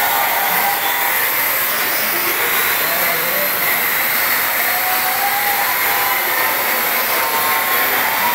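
Parrot AR.Drone quadcopter in flight: its four small electric rotors make a steady high whir, the pitch wavering slightly as the motor speeds change.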